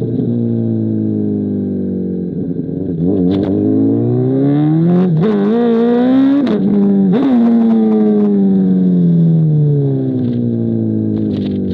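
Honda CBR1000RR's inline-four through an SC Project CR-T exhaust. The revs drop, then build for about three seconds with a brief dip partway, and then fall away steadily as the throttle closes, with a few sharp cracks near the top of the revs.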